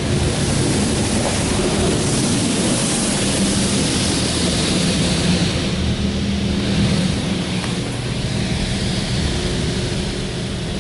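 Touchless automatic car wash's moving overhead arm spraying high-pressure water onto the car, heard from inside the car: a steady hiss of spray that swells for a few seconds and then eases, over a steady low hum.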